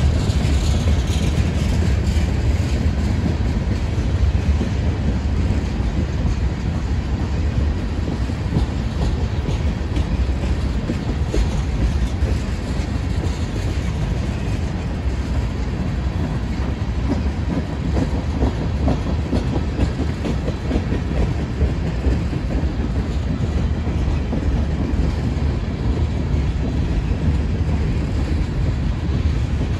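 Norfolk Southern freight train rolling past, a loud steady rumble of cars with wheels clicking over the rail joints.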